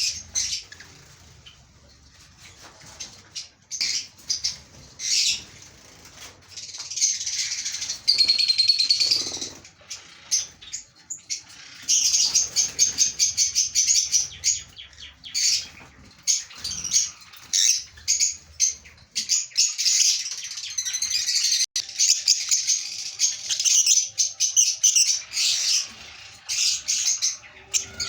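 Lovebirds chattering: rapid, high-pitched chirping in bursts of a few seconds with short lulls between.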